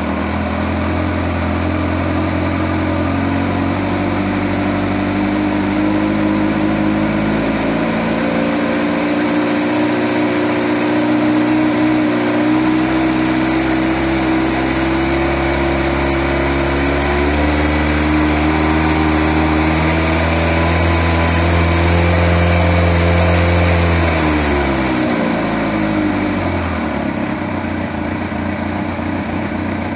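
2008 Kawasaki ZX-14's inline-four engine running, its revs creeping slowly up above idle for about twenty seconds, then dropping quickly back to idle. The bike has a ticking noise that the owner is trying to trace.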